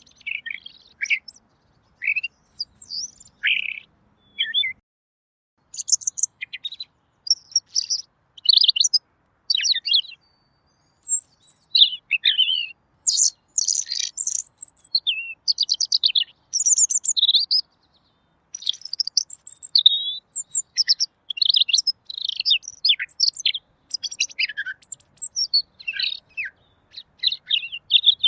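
Red-billed leiothrix (Pekin robin) singing: a long run of rapid, varied, clear warbled phrases, high-pitched, with short pauses between phrases and one longer break about two-thirds of the way through.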